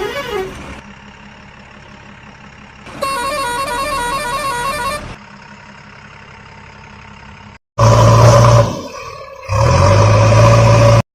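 Cartoon vehicle horn sound effects. A warbling horn ends just under a second in, and another warbling horn tune plays from about three to five seconds. Near the end come two loud, steady horn blasts of about a second each.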